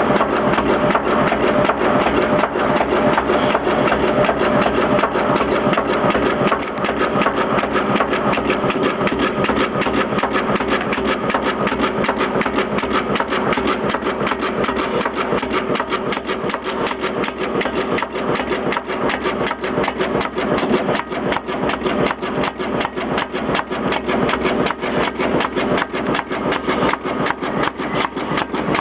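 Cardboard spine-cutting machine for hardcover book binding running steadily, a continuous mechanical sound with a fast, even run of ticks, a little quieter from about six seconds in.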